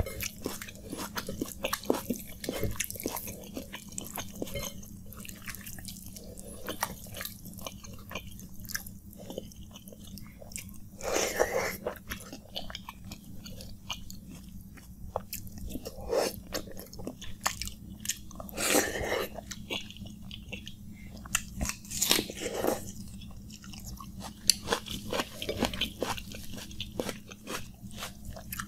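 Close-miked chewing of water-soaked rice eaten by hand: wet mouth clicks and smacks throughout, with several louder, longer bites spread through.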